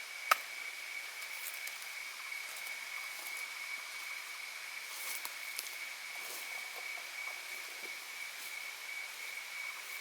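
A steady, unbroken high-pitched insect drone over a faint hiss. One sharp click comes just after the start.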